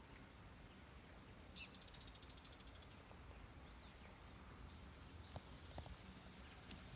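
Near silence of open countryside: faint, short, high bird calls every second or so, with a brief fast trill about two seconds in, over a low rumble.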